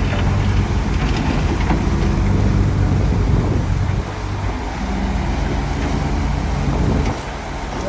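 Heavy diesel engine of a bulldozer running under load, with a few sharp metallic clinks in the first two seconds. The engine eases off about four seconds in and again near the end.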